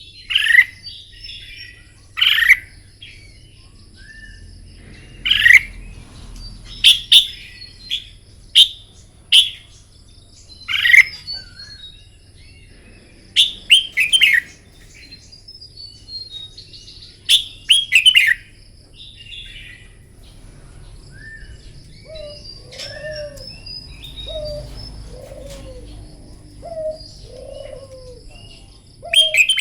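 Red-whiskered bulbuls singing: loud, short, bright warbling phrases every second or two. From about two-thirds of the way through, a dove coos low and repeatedly in the background.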